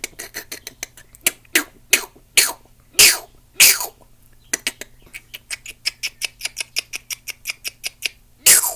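A man imitating a green heron's calls with his voice: quick clicking notes broken by several sharp, downward-sliding calls in the first few seconds. A long fast run of clicks follows, ending in one loud falling call near the end.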